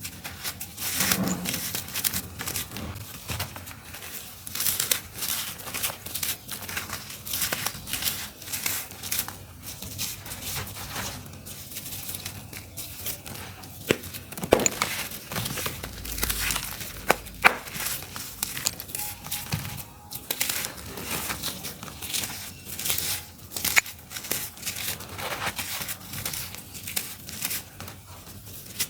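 Dry, crunchy clumps of earthy dirt crumbling and breaking apart: a dense run of irregular crackles and crunches with a few sharper snaps.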